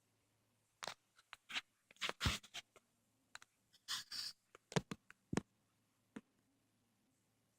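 Camera being handled and set in place: scattered light clicks, taps and rustles, about a dozen over the first five seconds, then quiet room tone.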